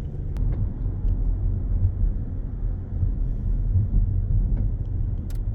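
Low, steady road and engine rumble of a car driving, heard from inside the cabin, with a light click about half a second in and another near the end.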